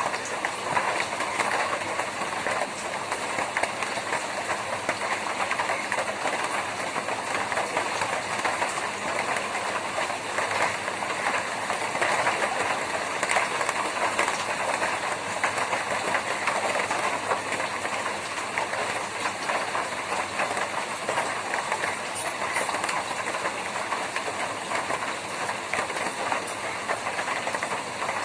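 Rain falling on a tin roof: a steady, dense patter of countless drops striking the metal sheeting, with no let-up.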